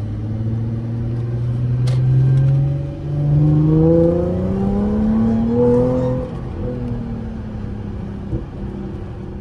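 Audi A6 C7's supercharged 3.0 V6 accelerating hard: engine pitch rises, drops briefly at an upshift about three seconds in, climbs again through the next gear, then eases off around six seconds in and settles to a steady lower drone.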